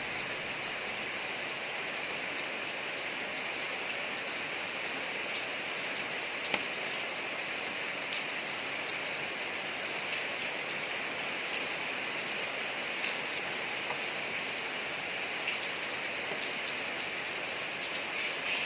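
Steady rain falling on a street: an even hiss with scattered drop ticks and a few sharper drop strikes.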